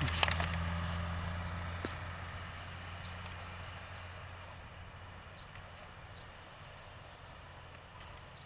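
Garbage truck's engine running with a low hum and fading steadily as the truck drives away.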